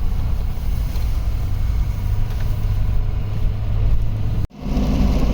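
Steady low rumble of a vehicle driving, engine and road noise. It cuts out sharply for a moment about four and a half seconds in, then resumes a little deeper.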